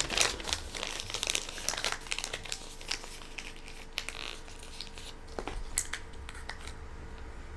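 Irregular crinkling and crackling handling noises, with a faint steady hum underneath.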